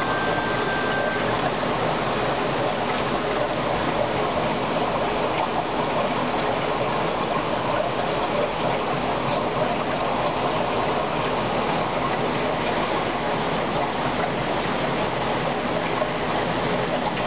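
Steady rush of running water from aquarium filtration.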